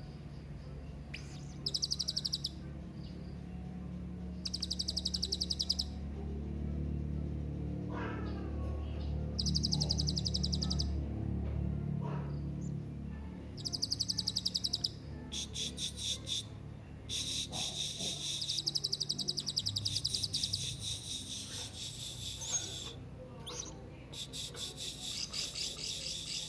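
Hanging parrot (serindit) calling: short, high, rapid trills about a second long, repeated every few seconds, then longer runs of fast ticking chirps in the second half. A low steady hum sits underneath.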